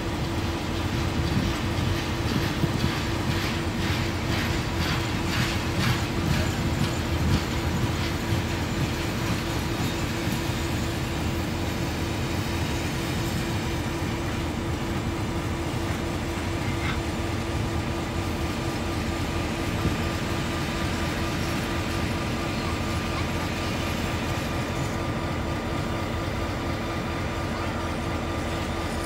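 A train running past with a steady rumble and hum. For several seconds early on, its wheels click rhythmically over the rail joints.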